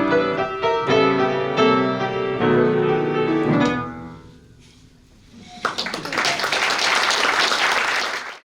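Piano playing a short interlude, the last notes dying away about four seconds in. About a second later applause breaks out and runs until the sound cuts off abruptly near the end.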